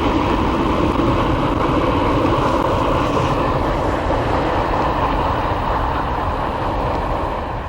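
Canadian Pacific freight train rolling past at close range: a steady rumble of wheels on the rails. It gets a little quieter near the end.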